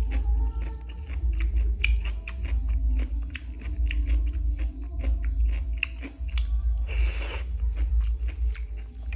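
Close-up chewing and crunching of green papaya salad, with many quick wet mouth clicks, and a brief hiss about seven seconds in. Music plays faintly underneath.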